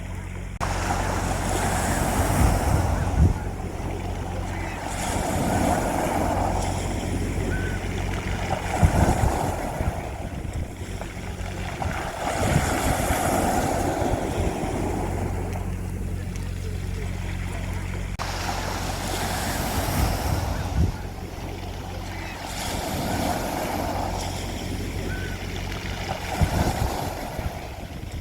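Sea waves washing onto a beach, the surf swelling and fading every three to four seconds over a steady low rumble.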